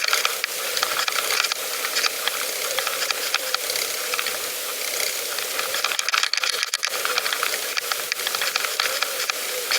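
Pedal bicycle on the move: steady tyre hiss with many small irregular clicks and rattles, ratchet-like in places.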